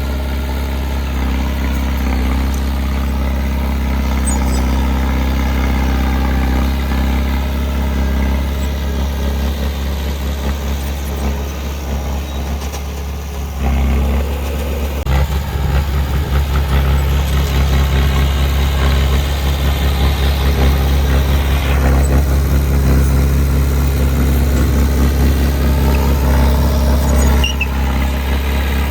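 Heavy diesel engine of earthmoving equipment running steadily. It gets louder and more throbbing about halfway through.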